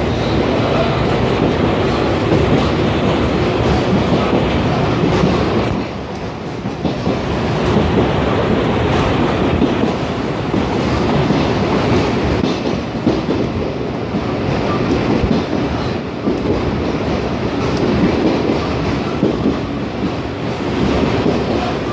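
Toshiba electric multiple unit running along the track, heard from inside the car: a steady rumble of wheels on rail with clickety-clack over the joints. The noise drops briefly about six seconds in, then builds again.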